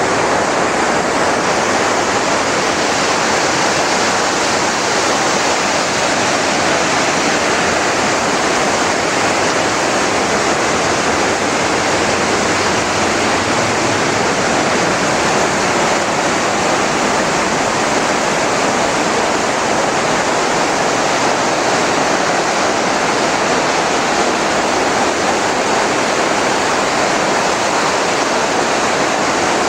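Waterfall with a loud, steady, unbroken rush of falling water.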